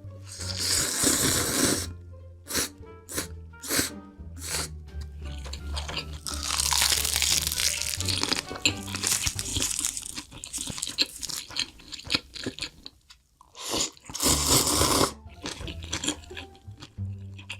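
Close-miked, ASMR-style eating of crunchy food: loud crunching bites and chewing in several bouts, with sharp crackles between them, over background music.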